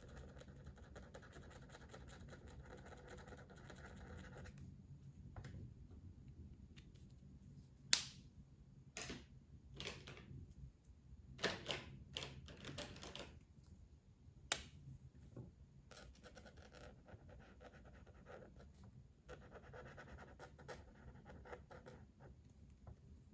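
Colouring tool scratching across paper in steady strokes, which stop for a while in the middle, when a couple of sharp clicks and a few short rustles are heard, then start again.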